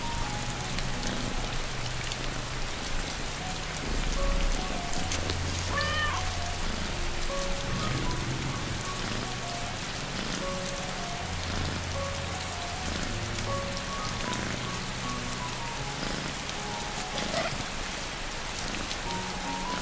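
Steady rain noise with slow, soft relaxation music of held notes over it. About six seconds in, a kitten meows once.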